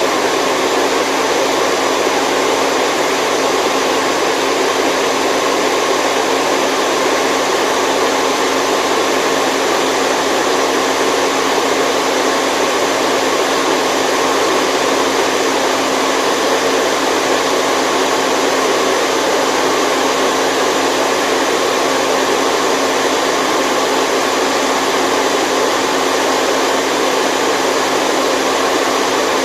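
Steady white noise for sleep: an even, unchanging hiss, strong through the middle and upper range with little deep bass.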